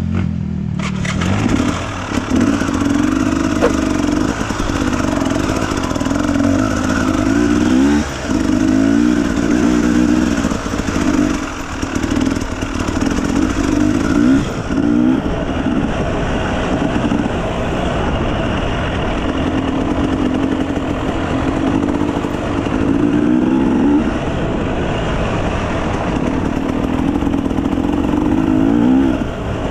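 Dirt bike engine running hard, its pitch climbing and then dropping back over and over as the throttle is worked.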